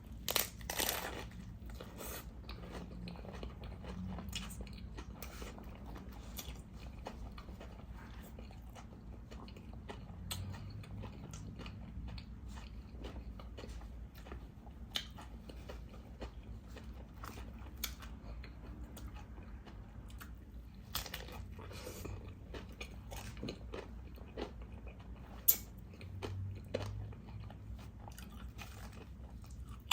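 Close-miked chewing and crunching of food, with scattered crisp crunches and a single loud, sharp crunch about 25 seconds in.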